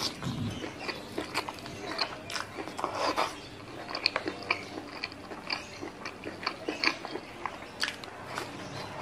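Close-miked chewing and biting of spicy stir-fried squid and rice, with many quick irregular mouth clicks and smacks.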